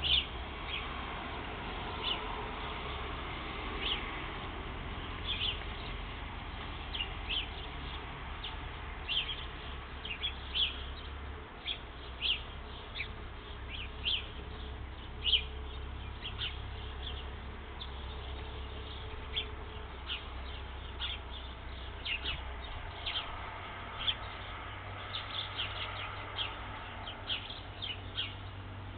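Birds chirping: many short, quick chirps scattered all through, over a steady low rumble.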